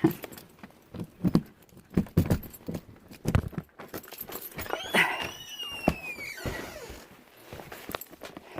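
Scattered knocks, bumps and footsteps from grocery bags being carried through a doorway, with one high squeal that slides down in pitch about five seconds in.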